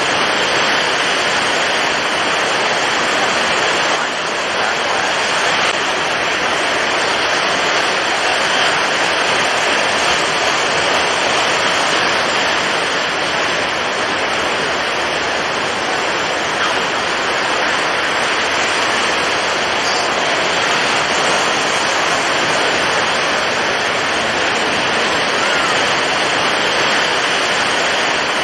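Storm at sea: strong wind and heavy waves making a steady, dense rush of noise, swelling slightly now and then.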